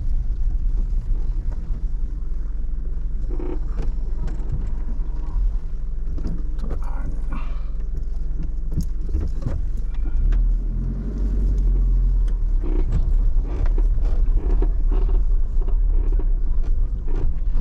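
Camper van running at low speed as it is manoeuvred into a parking spot, a steady low rumble with a few scattered knocks and clicks.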